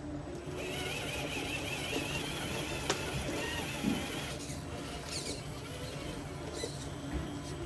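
Electric motor and gearbox of a Traxxas TRX-4 RC rock crawler whining at a wavering pitch as it crawls. The whine stops about four seconds in, with a few knocks and a sharp click as the truck works over rock.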